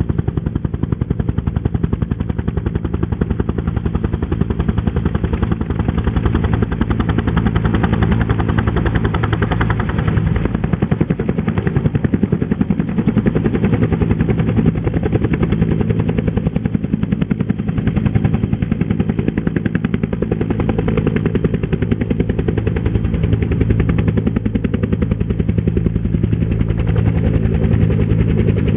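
Military helicopter running close by: the rotor blades beat in a rapid, even pulse over a steady low engine drone.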